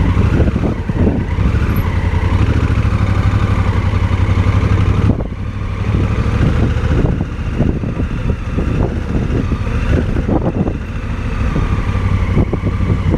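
Motorcycle engine running under throttle on a slippery dirt road, its revs rising and falling as the rider works the throttle while the rear tyre slides. The engine eases off briefly about five seconds in.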